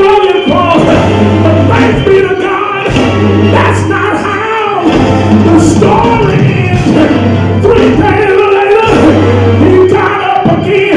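Gospel music: a choir singing over a band, with held bass notes recurring about every two seconds.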